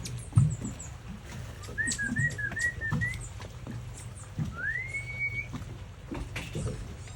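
Whistling: a wavering run of short whistled notes, then a long whistle that rises and holds its pitch, with a quick series of high chirps near the start. A steady low hum and a few soft knocks run underneath.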